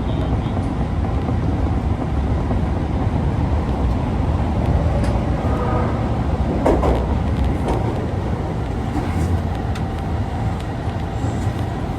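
Osaka Metro 22 series subway car running in the tunnel, heard from inside the car: a steady rumble of wheels and running gear, with a few light clicks around the middle.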